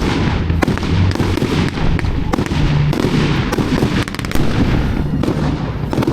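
Fireworks display going off: many sharp bangs and crackles in quick succession over a continuous low din.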